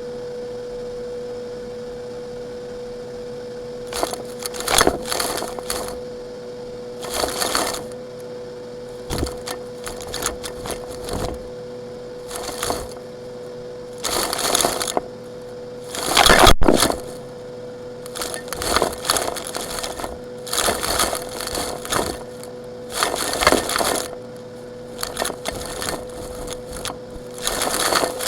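Gritty, rocky material crunching and crackling in about a dozen irregular bursts over a steady hum, the loudest about sixteen seconds in.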